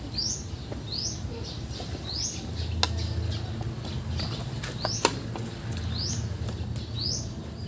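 A bird repeating a short, high, rising chirp about once a second, with two sharp clicks about three and five seconds in.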